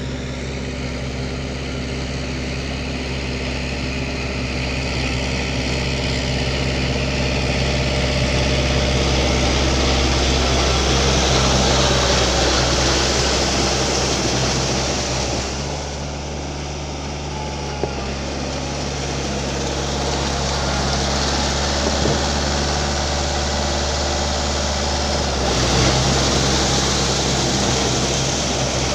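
Four-wheel tractor with a rotary tiller, its engine running steadily under work. The engine note changes abruptly about 16 s in and again near 26 s, with the overall level rising and falling gently.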